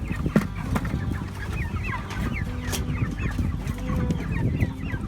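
A flock of Cornish Cross broiler chickens clucking and peeping, with many short overlapping calls and a few knocks of handling.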